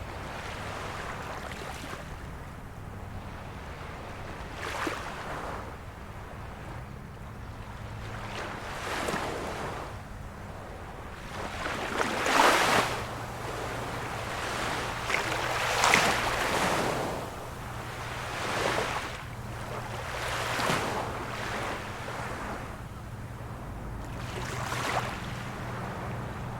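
Small waves of a calm sea washing in one after another, a soft rush every couple of seconds, two of them louder about halfway through. A faint steady low hum runs underneath.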